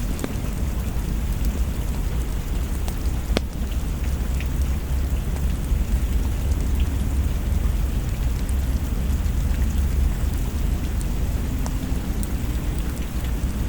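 Steady rain over a deep, continuous low rumble, with scattered crackles and one sharp pop from a wood fire in a fireplace.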